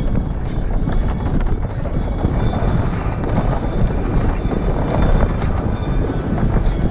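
Wind rushing over a GoPro's microphone during a ride, with a steady low rumble and irregular rattling knocks from the ride over the ground. Music plays faintly underneath.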